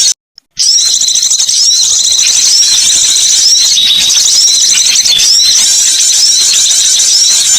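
Recorded songbird calls: a fast, unbroken stream of shrill, high-pitched chirps and chattering notes, broken by a brief dead silence just after the start.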